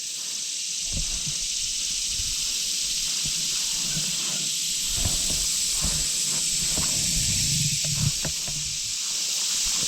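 Steady high-pitched hiss of an insect chorus in the weedy field edges, with intermittent rustling and footfalls through weeds.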